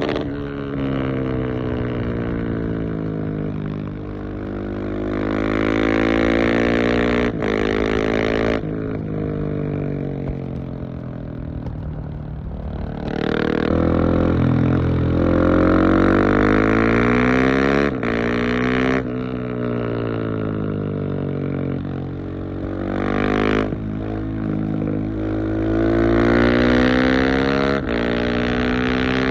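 Husqvarna 701 Supermoto's single-cylinder engine through a LeoVince exhaust with the dB-killer fitted, its note rising and falling again and again as the revs climb and drop, with sudden breaks in the note several times.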